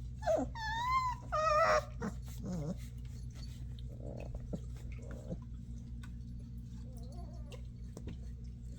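A 25-day-old Alaskan malamute puppy trying out a howl: a few short high cries that rise and fall in the first two seconds, then softer whimpers and grunts.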